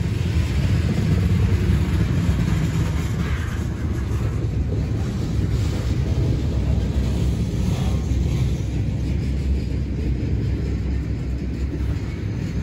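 Freight train of open-top coal hopper cars rolling past close by: a steady low rumble of steel wheels on the rails.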